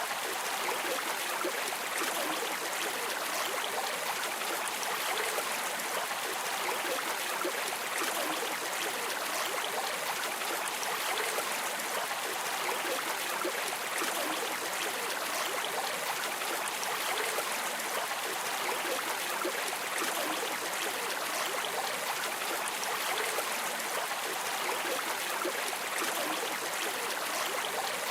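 River water flowing steadily over stones, a constant even rush of splashing and trickling.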